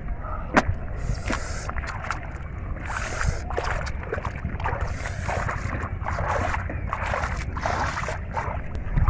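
Water sloshing and splashing in repeated short bursts, with scattered clicks and knocks, as hands grope through shallow river water and mud for fish.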